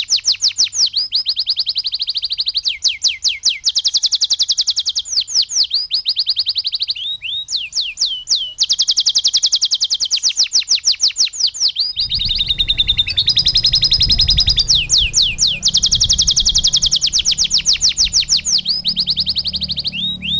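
Domestic canary singing a continuous song of very fast repeated trills and sweeping notes. It is a canary song filled with lovebird phrases. A low rumble joins under the song about twelve seconds in.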